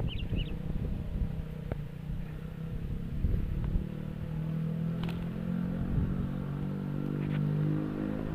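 A motor engine running steadily, coming in from about halfway and slowly growing louder. Before it there is a low rumble on the microphone and a few short high chirps near the start.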